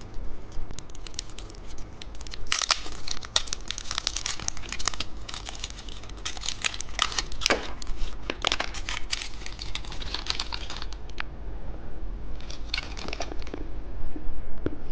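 Candy wrapper being torn open and unwrapped: repeated crinkling and tearing in clusters through most of the stretch, with a last short burst near the end.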